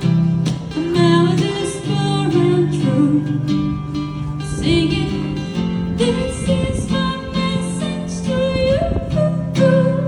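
Live busking performance of a reggae song: a woman singing over a strummed acoustic guitar.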